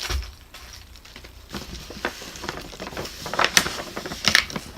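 Hands handling the doll's box packaging: scattered rustles and light clicks and taps, sparse for the first second or so and then coming irregularly.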